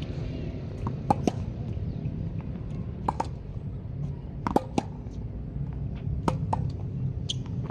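Squash rally: sharp smacks of the ball off rackets and the court walls, mostly in pairs about a quarter second apart, every one to two seconds, over a steady low hum.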